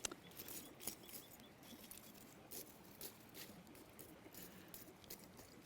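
Faint, irregular crackling and ticking of campfire coals.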